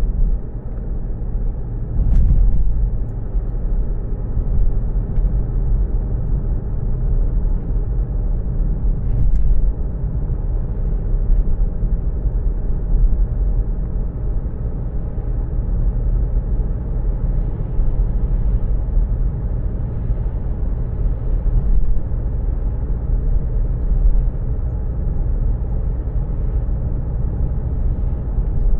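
Car engine and road noise: a steady low rumble, with two brief clicks, one about two seconds in and one about nine seconds in.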